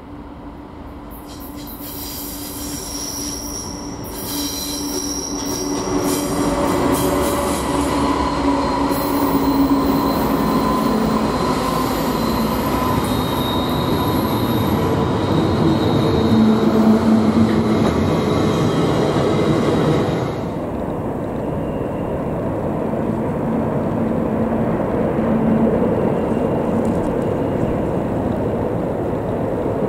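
Freight train rolling through a sharp curve, its wheels squealing against the rails over a steady rumble that grows louder over the first several seconds. The high squealing stops abruptly about twenty seconds in, while the rumble of the passing cars goes on.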